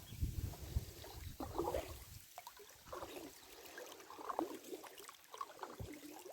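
Small irregular splashes and trickling water close beside a small boat on a river, with a low rumble for the first two seconds.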